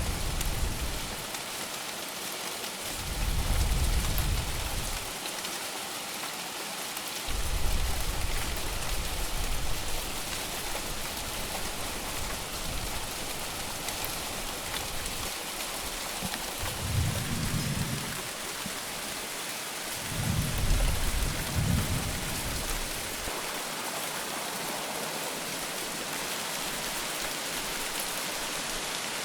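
Steady, heavy rain falling, with about five low rumbles of thunder that swell and fade over the first two-thirds of the span.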